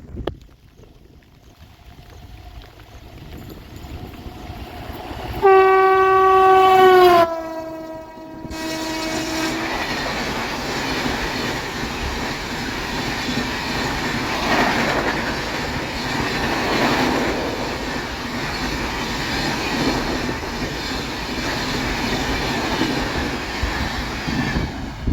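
Indian Railways express train approaching at speed, sounding its electric locomotive's horn for about two seconds. The horn's pitch drops as the locomotive passes. The coaches then run by with continuous rushing wheel and track noise for the rest of the clip.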